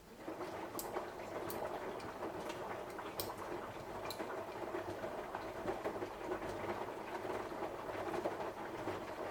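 Samsung washing machine's drum starting to turn again after a pause, churning the wet load in a 60 °C cotton wash, with a few sharp clicks in the first few seconds.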